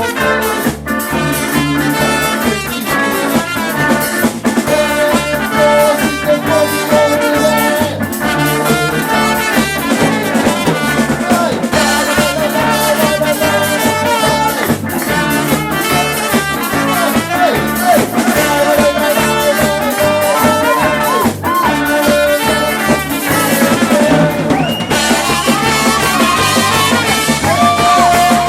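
A live band playing an instrumental passage, with brass (trumpet and trombone) over a drum kit and a steady, driving beat.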